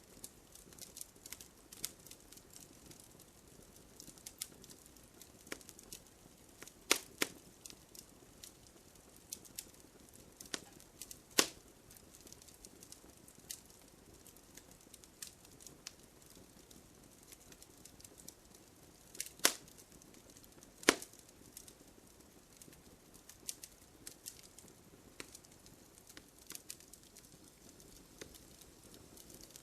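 Wood campfire crackling: irregular small snaps of burning wood, with four much louder pops, two close together about a third of the way in and two more just past halfway.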